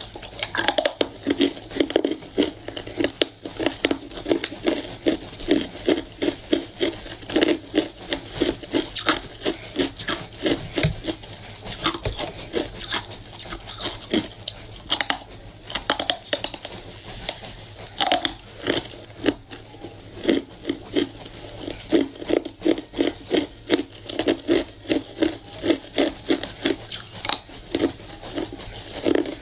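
Hard ice being bitten and chewed close up: a fast, steady run of sharp crunches, two or three a second, with brief pauses between mouthfuls.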